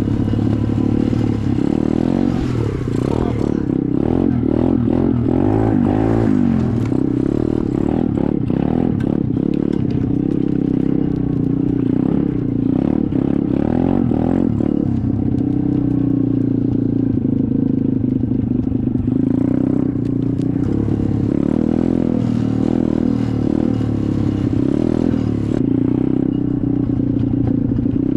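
SSR 125 dirt bike's single-cylinder four-stroke engine running under way, its revs rising and falling throughout.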